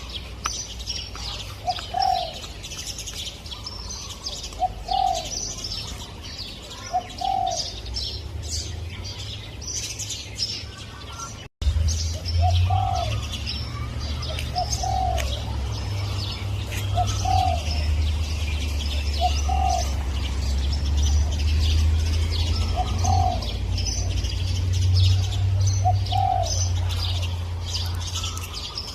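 Spotted dove cooing, short arched coo notes repeated every couple of seconds, over the high chirping of other small birds. A low rumble runs underneath and grows louder after a brief dropout about a third of the way in.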